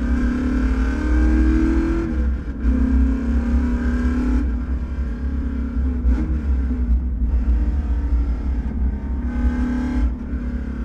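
Race car engine running under load, its pitch climbing for about two seconds and then dropping sharply, as at a gear change, over a heavy low rumble.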